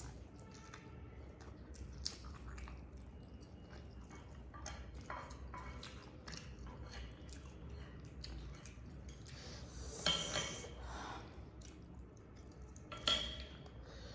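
Eating sounds: chewing, with small scattered clicks of cutlery and dishes, and two louder short bursts about ten and thirteen seconds in.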